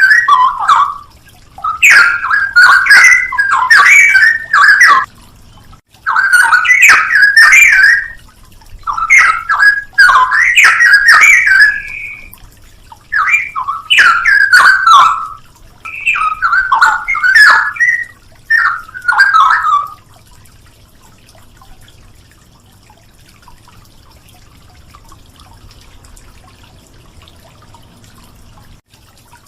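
Straw-headed bulbul (cucak rowo) singing loud, bubbling warbled phrases, each a second or two long with short gaps between, as in a song-training master recording. The song stops about two-thirds of the way through, leaving only a faint hiss.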